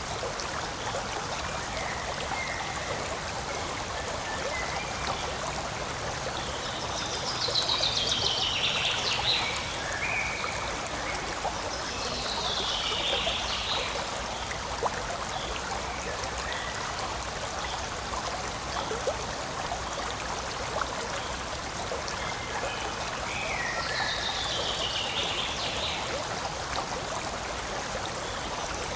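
A forest stream flowing and trickling steadily. A bird sings three falling, trilled phrases over it: about a quarter of the way in, near the middle, and late on.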